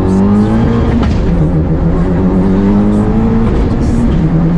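The turbocharged four-cylinder engine of a built 10th-gen Honda Civic Si race car pulling under hard acceleration. Its note climbs, dips about a second in, climbs again, then drops clearly near the end as it shifts up a gear.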